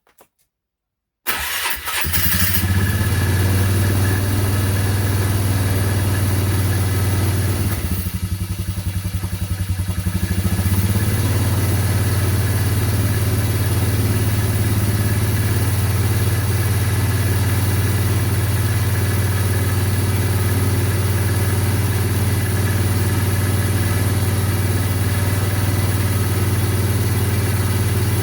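ATV engine firing up on a cold start about a second in and then running steadily. It falters for a couple of seconds partway through before settling back into an even run.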